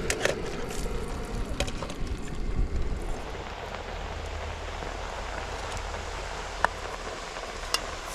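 Food frying over a camp cooking fire: a steady sizzling hiss with a few sharp crackles and pops.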